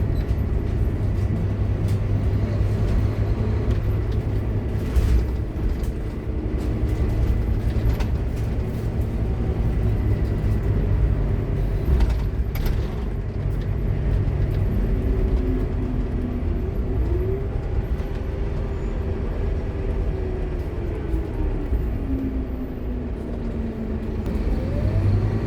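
Scania K230UB Omnilink bus running with a steady low diesel rumble. In the second half its ZF Ecomat automatic gearbox whines, the pitch rising and falling as the bus gathers and loses speed. A few knocks and rattles come through.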